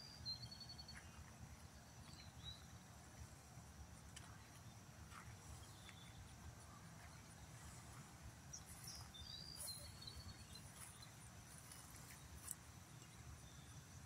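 Near-silent outdoor ambience: a low wind rumble and a faint steady high tone. Short high bird chirps come just after the start and again about two-thirds of the way in.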